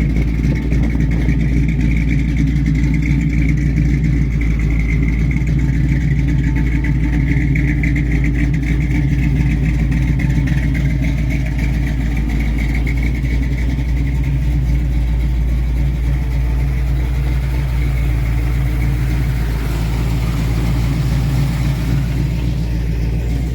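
V8 engine of a 1965 Ford Mustang, a 351 Windsor stroked to 427 cubic inches, running steadily and loudly.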